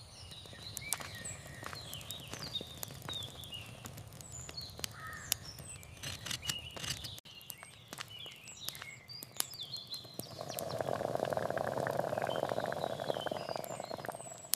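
Small birds chirping and twittering over a background of light clicks and taps. About ten seconds in, a steady rushing noise starts and becomes the loudest sound.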